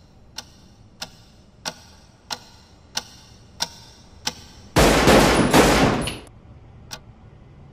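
Clock ticking, about three ticks every two seconds. Nearly five seconds in, a loud revolver gunshot breaks in, lasting over a second with two surges, and then the ticking goes on.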